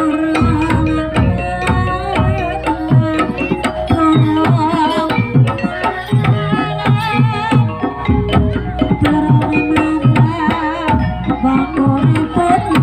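Live Javanese gamelan music accompanying a barongan dance: kendang hand drums beat a quick, busy rhythm under ringing metallophone notes, with a wavering higher melody line over the top.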